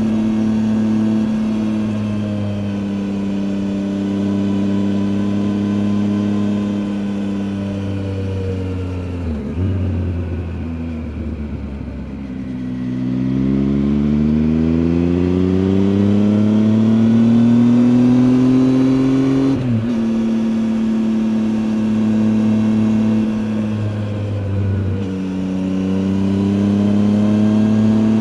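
Triumph Tiger 800 XCA's inline three-cylinder engine, heard from on the bike. It runs steadily, then its pitch falls as it slows about a third of the way in. It then climbs steadily under acceleration and drops sharply about two-thirds in at an upshift, with another brief dip and shift near the end.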